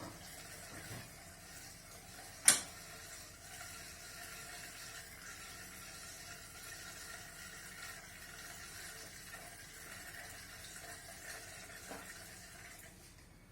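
Liquid bioethanol fuel running steadily into an automatic bio-fireplace's fuel tank during refuelling, stopping just before the end. A sharp click about two and a half seconds in, and a softer one near the end.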